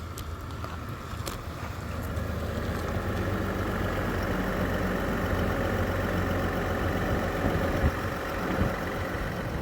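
Truck engine running, getting louder about two seconds in as it comes close, then holding a steady low hum with a couple of brief knocks near the end.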